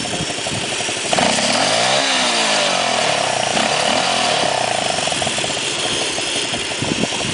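Small X18 superbike motorcycle engine running at a steady buzz. It gets louder about a second in and rides past close by around two seconds in.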